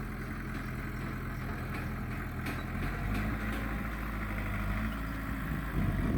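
Heavy diesel engine running steadily, its note shifting and growing slightly louder about three seconds in as the load or throttle changes.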